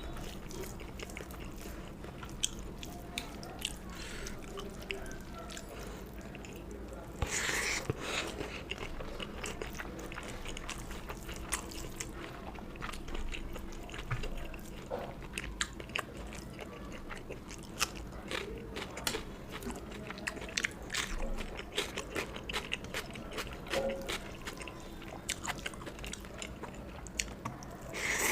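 Close-miked eating: wet chewing and smacking of a mouthful of rice and fish curry, with scattered small clicks and crunches, and a louder rustle about seven seconds in and again near the end.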